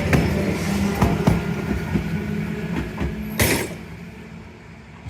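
Randen Kitano Line tram running past on its rails, with a steady hum and wheels knocking over rail joints, a louder clank about three and a half seconds in, then the sound fading as it moves away.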